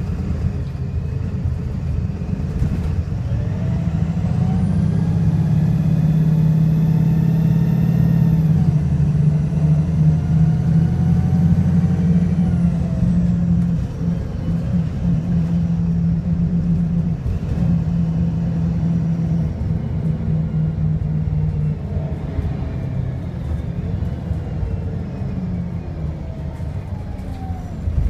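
VDL SB200 bus engine under a Voith automatic gearbox kick-down: the engine revs hard with a rising whine that holds for several seconds, then falls away about halfway through as the load eases, before the engine pulls up again near the end. The engine is misfiring and sounds very unhealthy.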